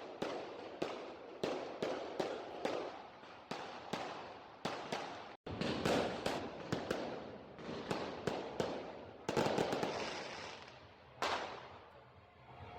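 New Year's fireworks exploding in rapid succession, a string of sharp bangs about two a second, each echoing away. About nine seconds in comes a denser burst of crackling, and the bangs thin out near the end.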